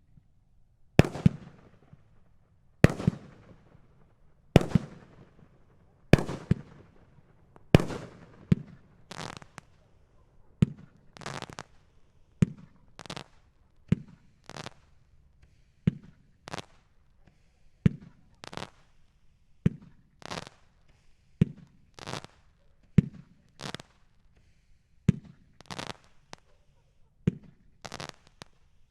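Red Rhino "Open Carry" 500-gram multi-shot fireworks cake firing shot after shot. The first few loud reports come about every second and a half, each with a long fading tail. After that comes a steady run of paired bangs, a launch followed shortly by the break.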